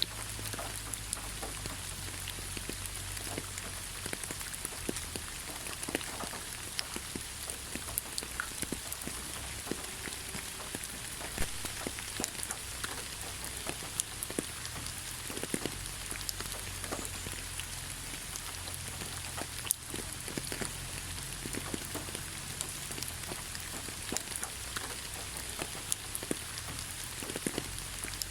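Steady rain falling on leaves: a constant hiss with many separate drops pattering and ticking throughout.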